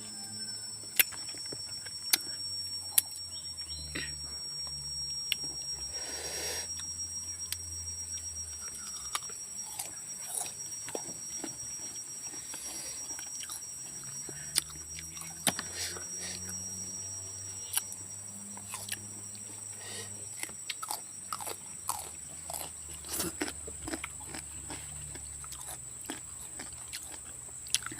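Close-up chewing and crunching of half-ripe papaya, with irregular crisp crunches and wet clicks of biting. A steady high-pitched whine runs underneath.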